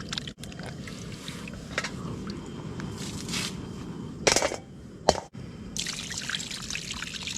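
Water trickling and pouring during cooking, with two sharp knocks about four and five seconds in.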